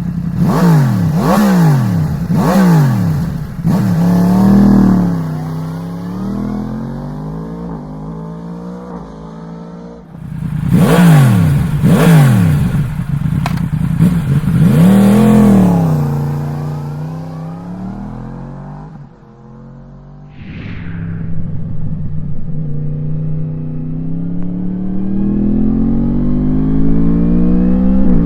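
2020 Yamaha MT-10 SP's crossplane inline-four through an Akrapovic exhaust, recorded close up by a mic on the bike. It is blipped sharply about four times, settles to idle, then gets another round of about four quick revs and falls back to idle. Over the last several seconds the engine speed climbs slowly and steadily.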